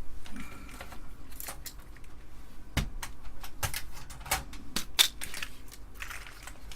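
Irregular clicks and light knocks of plastic and metal as an Amiga 500's keyboard and case parts are handled during disassembly. The sharpest click comes about five seconds in.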